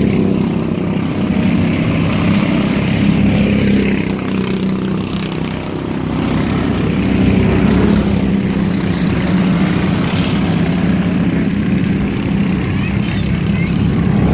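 Junior mini race trucks' engines running at racing speed on the oval, a steady engine drone that dips slightly about five seconds in.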